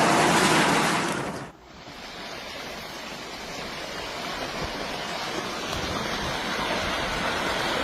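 Rushing noise like surging water. A loud rush stops abruptly about a second and a half in, and a quieter rush then swells slowly.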